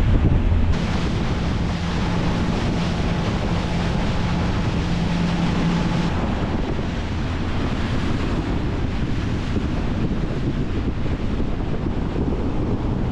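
Wind buffeting the microphone on a motor boat under way, over the rush of water along the hull, with a steady low engine hum in the first half.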